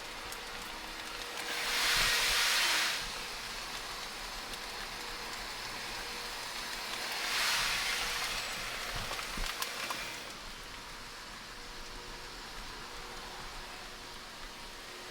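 Steady cabin noise inside a 700 Series Shinkansen car, with two swells of rushing hiss about two seconds in and again around seven to eight seconds. A few light clicks follow near ten seconds.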